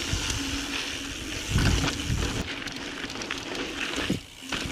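Mountain bike being ridden on a dirt trail: tyres on dirt and gravel with scattered rattles and clicks from the bike. There are low rumbling surges about a second and a half in, and a brief lull near the end.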